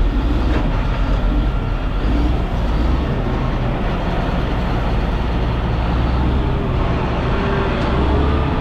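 Motor grader's diesel engine running steadily with a deep, even rumble as the machine works the road.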